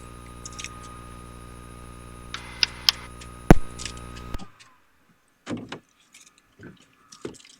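Steady electrical hum and whine of a light aircraft's cockpit electrics and intercom after engine shutdown, with a few switch clicks, one sharp and loud. The hum cuts off suddenly about four seconds in as the electrical power is switched off, leaving only a few small clicks and rustles in the cabin.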